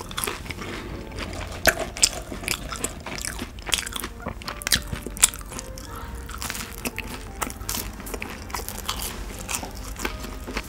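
Close-miked crunchy chewing of fried fast food, with a bite into a ketchup-dipped french fry about six seconds in.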